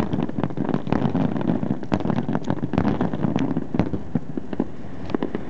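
Aerial fireworks exploding in quick succession: a dense run of sharp bangs and crackles over a continuous rumble, busiest in the first four seconds and thinning a little near the end.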